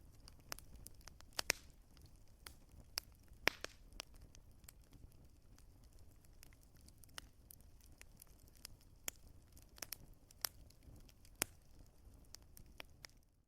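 Wood fire crackling, with irregular sharp pops, some louder than others, over a faint low rumble. The sound cuts out for a moment near the end.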